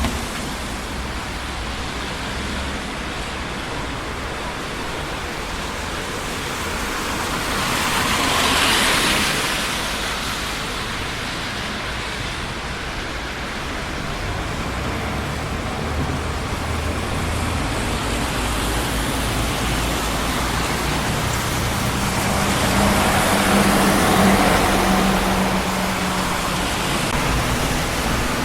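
Steady traffic noise of a busy city street: a continuous wash of tyre and engine noise, with one vehicle passing close about nine seconds in and a heavier one with a low engine note swelling past around twenty-four seconds in.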